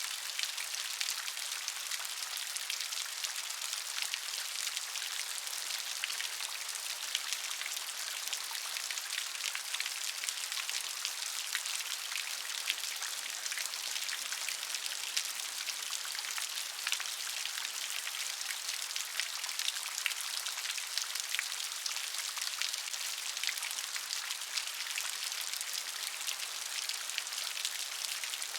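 Steady rain, a dense patter of raindrops hitting a surface, even and unchanging throughout.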